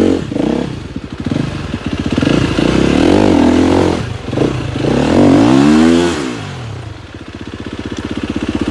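KTM 250 XCF-W dirt bike's 250 cc four-stroke single-cylinder engine revving up and down several times under changing throttle. The biggest rise comes about five seconds in, then the revs fall away to a lower, steady putter near the end.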